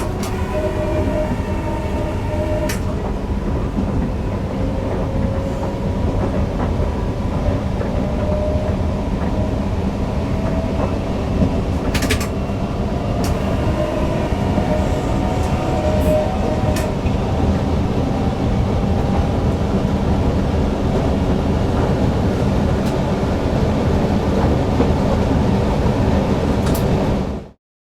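Newag Impuls EN63 electric multiple unit running along the line, heard from the driver's cab: a steady rumble of wheels on rail with a whine slowly rising in pitch and scattered sharp clicks. The sound cuts off abruptly near the end.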